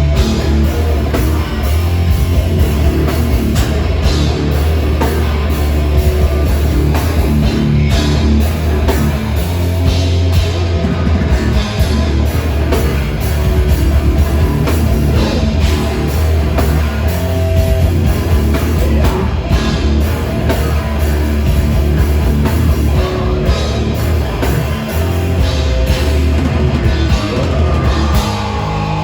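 Live heavy metal band playing loud: distorted electric guitars, bass and a pounding drum kit. Near the end the drums drop away and a held chord rings on.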